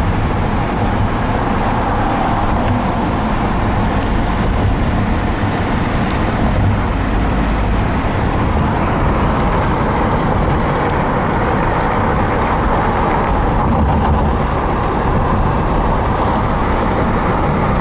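Steady road and engine noise of a car driving at highway speed, heard from inside the car.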